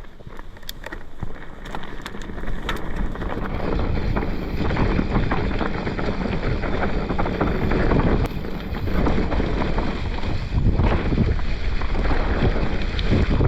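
Wind rushing over the microphone and a mountain bike's tyres rumbling over a dirt trail, building over the first few seconds as the bike gathers speed downhill. There are a few sharp clicks near the start.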